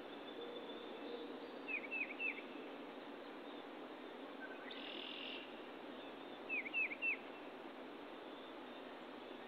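Woodland ambience: a songbird sings a short phrase of three quick down-slurred whistles, twice, about five seconds apart, over a steady faint hiss.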